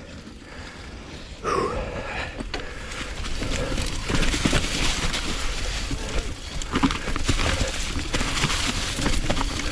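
Mountain bike riding down a rough dirt trail, heard from a GoPro on the rider: tyres rolling over dirt and rocks, the bike rattling with many small knocks, and wind on the microphone. It grows louder about a second and a half in.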